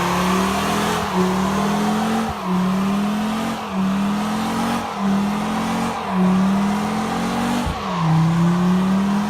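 Boosted Mazda Miata's four-cylinder engine held at high revs, its pitch climbing for about a second and then dropping back sharply, over and over throughout.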